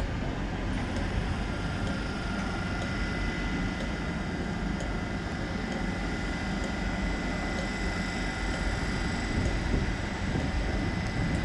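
Trains standing at station platforms: a steady low rumble of idling rolling stock with a constant faint high-pitched whine from electric train equipment.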